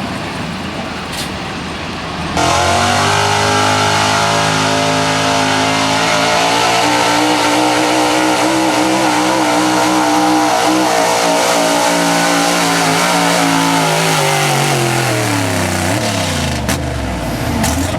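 Big-block V8 of a pulling truck going to full throttle about two seconds in and holding high revs for about twelve seconds as it drags the sled, then falling in pitch near the end as the driver lets off.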